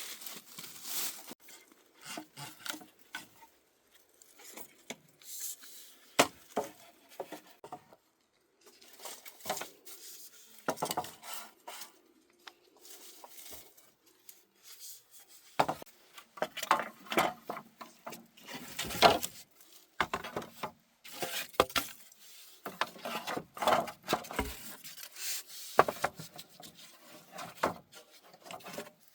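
Wood being worked by hand: irregular knocks, scrapes and rubbing strokes in uneven bursts, busier in the second half.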